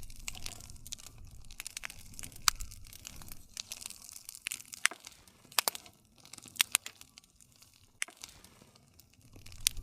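Wood fire crackling, with steady hissing and a low rumble from the flames. Sharp pops come every second or so as the burning wood snaps, loudest about two and a half seconds in.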